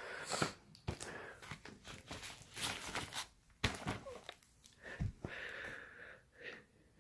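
Fireworks and their packaging being handled: irregular rustling and tearing with sharp knocks, the loudest knocks about half a second in, near the middle and about five seconds in.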